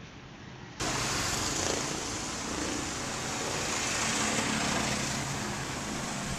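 A road vehicle's engine running under a loud, even rushing noise. The sound cuts in abruptly about a second in.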